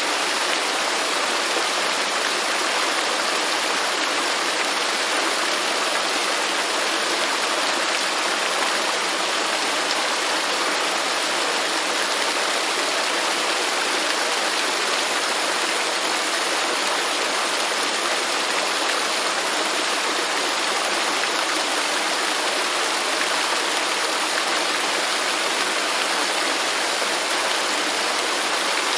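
Waterfall pouring steadily into a pool, a constant even rush of falling water with no change.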